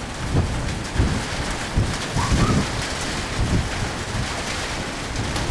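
Heavy downpour of rain, a steady hiss of falling water, with several short low rumbles or thumps rising out of it.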